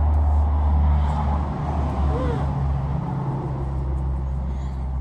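A motor vehicle's engine running close by: a steady low rumble that eases off slowly toward the end.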